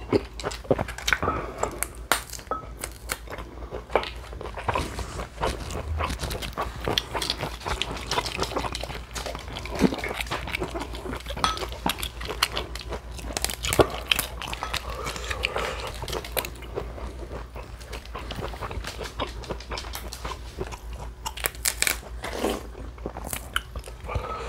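Close-miked eating: steady chewing with many crisp, irregular crunches and wet mouth clicks.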